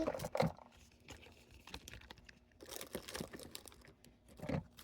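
Soft crinkling of plastic packaging with irregular small clicks and taps as small items are handled and packed.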